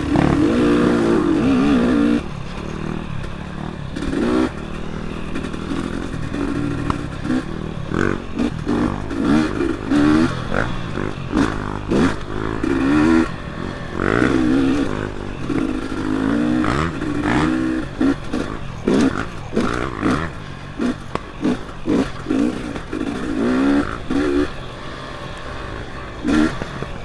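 Dirt bike engine revving up and down over and over as the throttle is worked, with frequent knocks and rattles throughout.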